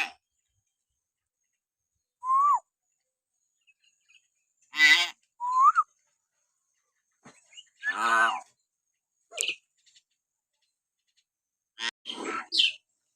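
Hill myna calling: short clear whistles mixed with harsh, raspy calls, one at a time with pauses of a second or two, and a quick run of calls near the end.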